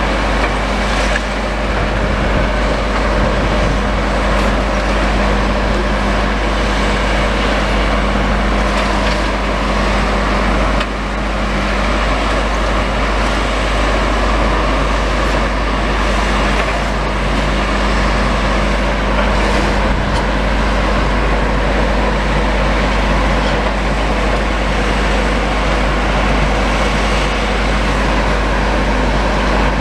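Diesel demolition machinery, such as excavators, running steadily with a constant low engine drone and a few faint clunks.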